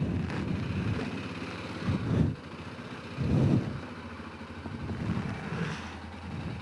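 Honda Rincon 650 quad's single-cylinder engine running under way, swelling louder briefly about two seconds in and again about three and a half seconds in.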